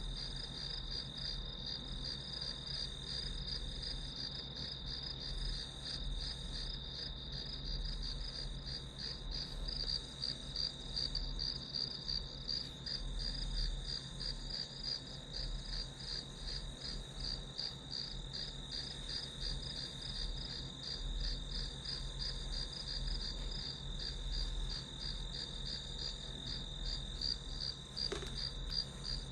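Chorus of crickets and other grass insects: a steady high trill with a rapidly pulsing chirp over it, unbroken throughout.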